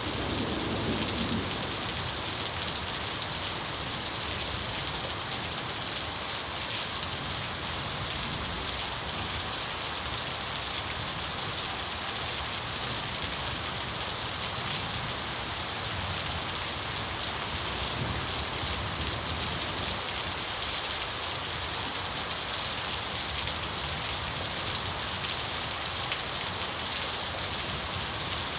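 Steady rain falling and pattering, with the tail of a thunder rumble dying away in the first second or so.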